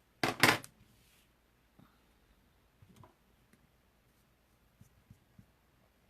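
A short rustle of paper or cardstock being handled near the start, followed by faint light taps and clicks on the craft table.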